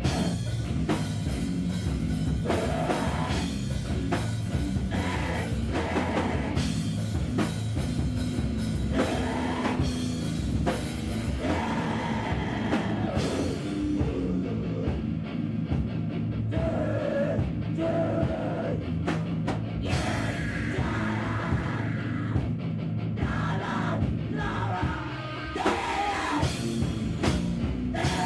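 Live heavy rock band playing loud, with a pounding drum kit, amplified instruments and singing.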